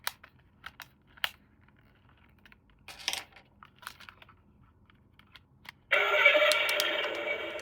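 Light plastic clicks and clacks of an RC toy or its packaging being handled. About six seconds in, a loud, steady sound starts suddenly.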